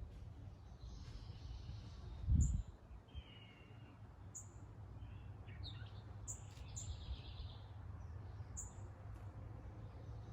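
Wild birds calling and singing: a short, high call repeated about every two seconds, with warbling song from other birds, over a steady low rumble of background noise. A single dull thump about two and a half seconds in.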